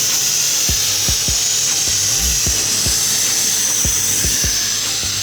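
Sandblaster blasting: a steady high hiss of compressed air and abrasive from the nozzle, with the pressure turned up. Background music with a repeating bass beat plays underneath.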